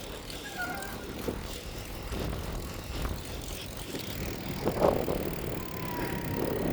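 Bicycle being ridden: a steady low rumble of tyres and air over the microphone, with a few faint knocks and rattles and a louder jolt about five seconds in.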